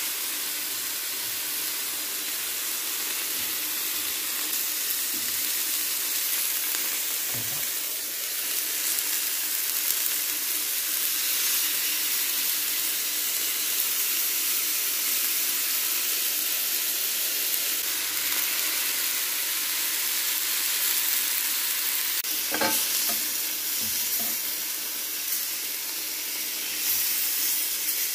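Marinated chicken skewers, green pepper and onion sizzling steadily in a hot ridged grill pan, with a few light knocks about three-quarters of the way through.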